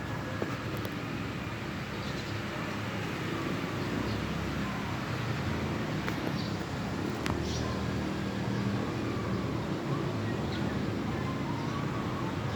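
Steady low background rumble with a few sharp clicks, and faint bird calls toward the end.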